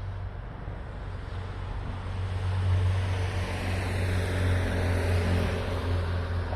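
Keihan 600-series two-car electric train running, a low hum with rumbling wheel and running noise that grows louder about two seconds in.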